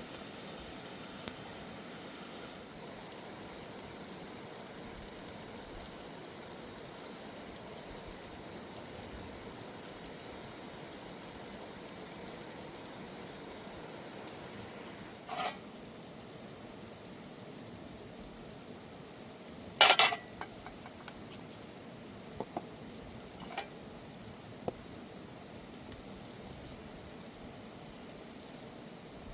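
A cricket chirping in a steady rhythm, about two high chirps a second, starting about halfway through over a faint steady hiss; a single sharp knock sounds a few seconds after the chirping begins.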